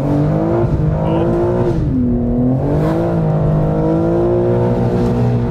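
BMW M4 G82's twin-turbo inline-six under load, heard from inside the cabin. The revs climb, fall away briefly about two seconds in, then rise again and hold steady.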